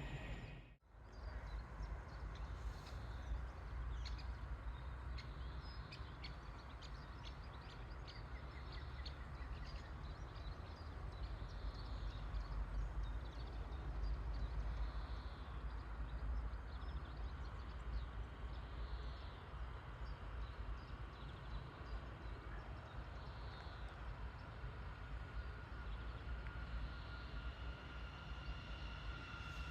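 Railway station platform ambience: a steady low rumble with scattered bird chirps, broken by a brief drop-out about a second in. A faint steady whine sets in near the end.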